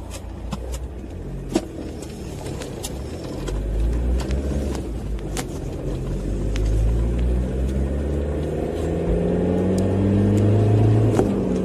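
Car engine running, its revs rising and falling in the second half, with scattered light clicks.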